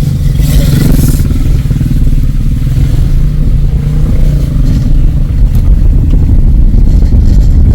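Car driving over a rough, badly broken road: a loud, steady low rumble from the engine, tyres and suspension, with a brief burst of rattling noise about half a second in.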